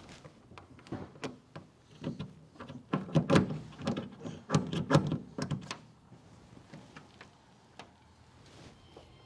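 A run of irregular knocks and clicks, thickest and loudest between about three and five and a half seconds in.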